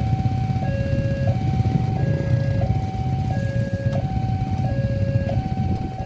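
Level crossing warning alarm sounding its electronic two-tone signal, switching between a lower and a higher tone about every two-thirds of a second, over a steady low rumble.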